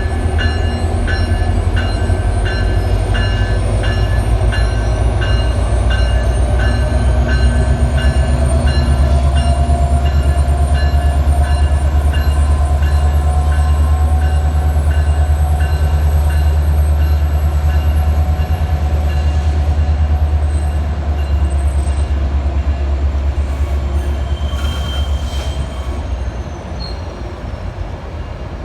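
Metrolink commuter train's diesel locomotive running close by with a loud, steady deep rumble, its bell ringing about twice a second for the first half. A whine rises in pitch for several seconds midway, faint high wheel squeal sounds above it, and the rumble fades near the end as the train moves off.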